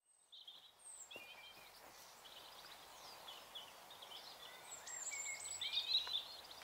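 Several songbirds chirping and calling, short high chirps and whistled glides over faint outdoor background noise, gradually getting louder.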